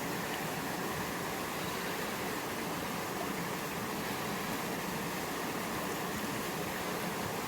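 Steady rush of flowing water from a river swollen by heavy rain.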